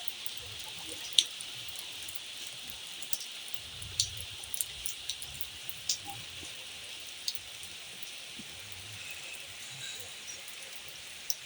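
Fine, light rain falling steadily, with individual drops tapping sharply here and there, as from water dripping off the roof edge.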